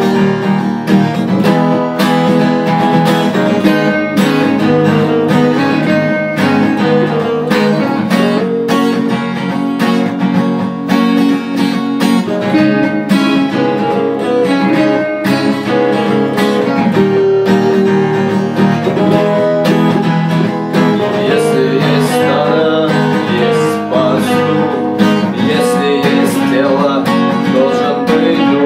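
A guitar strummed in a steady rhythm, playing chords continuously.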